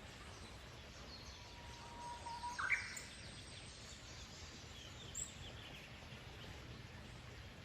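Songbirds singing: one long, even whistled note that breaks into a short, quick higher phrase a little under three seconds in, with fainter chirps and trills from other small birds around it over a steady low background rumble.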